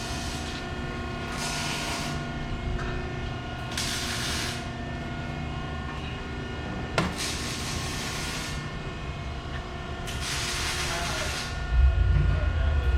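Arc welder welding exhaust tips onto the pipes: several hissing bursts, each about a second long, a couple of seconds apart. A loud low rumble starts near the end.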